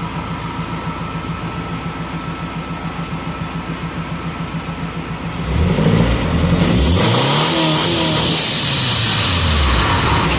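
Turbocharged four-cylinder engine of a Honda Fit idling in neutral with an even pulse, then revved up and down several times from about five seconds in. A loud rushing hiss comes in with the revs and keeps on, which the owner presents as the blow-off valve purging.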